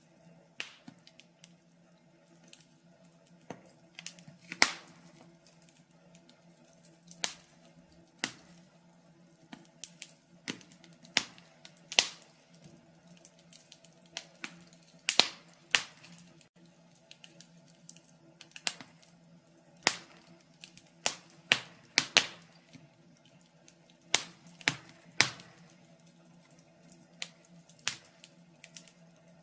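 Wood fire crackling, with irregular sharp pops and snaps at uneven intervals, some much louder than others, over a faint steady hum.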